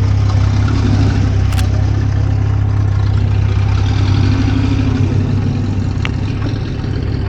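Car engine idling steadily close by, a constant low hum, with two short clicks, one about a second and a half in and another near the end.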